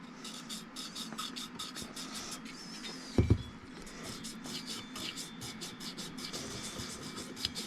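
Quick, light scratchy strokes, several a second, of hand-rubbing inside a chainsaw cylinder bore to clear marks that may be aluminium transfer from the piston or gouges. One short low thump about three seconds in.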